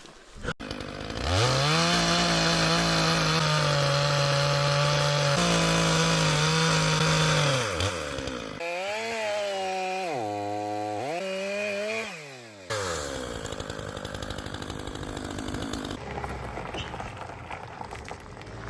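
An engine revving hard: it climbs to a high, steady pitch and holds there for several seconds before dropping away. It then revs again with repeated dips and recoveries in pitch.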